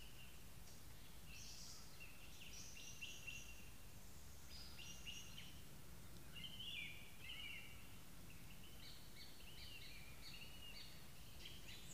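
Faint chorus of small birds chirping and calling, many short high calls overlapping, over a steady low background noise.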